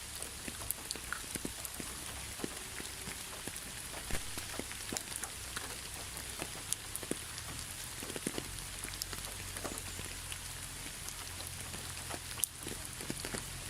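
Steady rain with many separate drops ticking on a hard surface at irregular times over a constant hiss.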